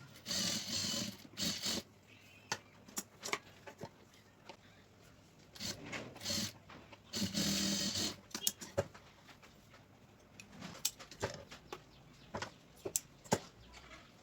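Sewing machine stitching in several short runs in the first half, then a string of scattered sharp clicks.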